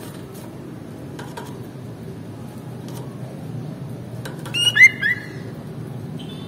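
Sooty-headed bulbul giving one short burst of sharp call notes about four and a half seconds in, over a steady low background hum.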